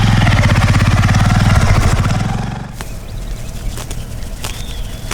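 A motor vehicle's engine running close by with a fast, even firing pulse, then dropping away about two and a half seconds in. A few sharp clicks follow.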